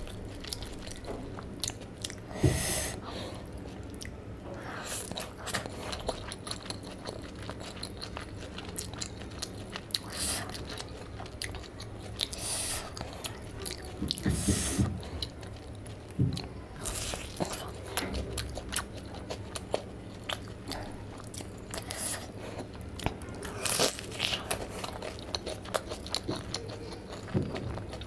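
Close-miked chewing and crunchy bites of fried snack food, a steady run of small crackling mouth sounds with a few louder crunches scattered throughout.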